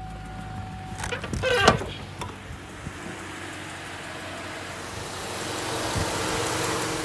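A Chevrolet 5.3 V8 idling with engine flush in its oil; the owner says this engine has a really loud lifter tick. About a second in there is a brief, loud sliding squeal or whine, and a hiss swells in the second half.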